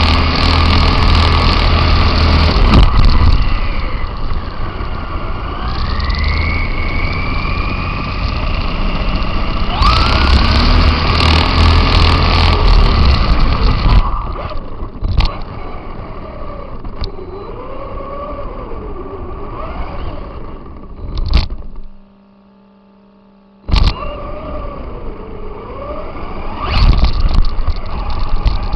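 RC car's motor whining up and down in pitch with the throttle over loud rumbling tyre and wind noise, heard through the car's onboard camera microphone. The sound cuts out for about two seconds roughly three-quarters of the way through.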